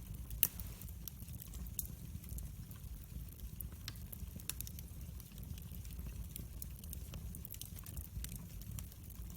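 Wood fire burning in a fireplace: irregular sharp crackles and pops over a low steady rumble, the loudest pop about half a second in.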